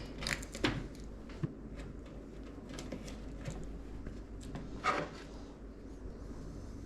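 Hands handling PC parts during assembly: a few light clicks and knocks of plastic and metal, bunched near the start with a louder click about five seconds in, over a steady low hum.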